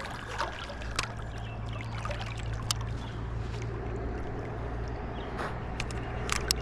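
Creek water running and sloshing in a steady wash, with a few light clicks.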